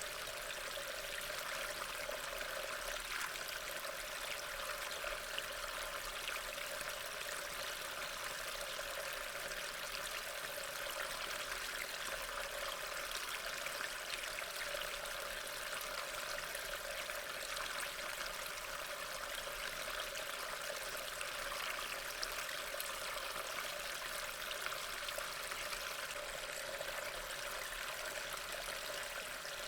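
Steady rain ambience: a continuous even hiss of falling rain with no pauses or changes.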